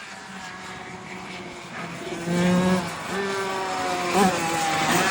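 Honda CR85 85cc two-stroke single-cylinder engine in an NSR50 mini-bike, running at speed on track. It is quieter at first, then louder from about two seconds in, its pitch repeatedly climbing and then dropping back, with a short blip about four seconds in.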